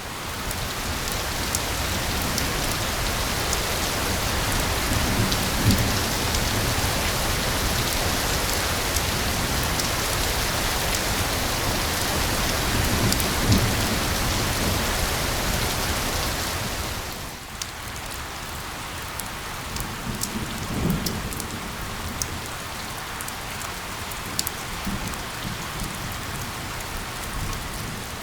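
Steady rain with scattered drop ticks, heavier at first and easing off noticeably about two-thirds of the way through. A few brief low rumbles sit under it.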